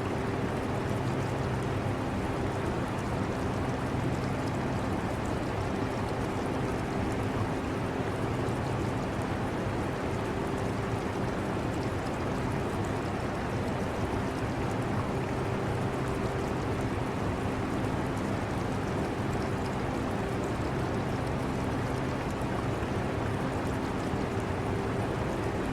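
Air conditioner running with a steady low hum and a constant rush of air, together with running, trickling aquarium water.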